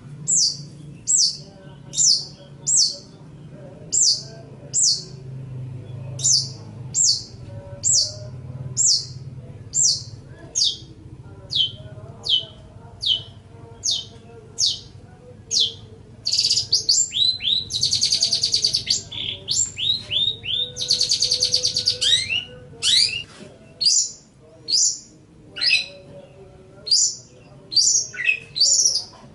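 Long-tailed shrike (cendet) singing: a steady series of sharp, high notes, each sweeping downward, about one and a half a second. About halfway through it breaks into two harsh, buzzy rattles of a second or more each, then goes on with more varied notes.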